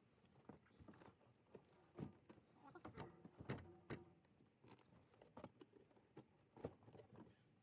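Faint, irregular knocks and clatter of objects being handled and set down, the loudest a little past three and a half seconds.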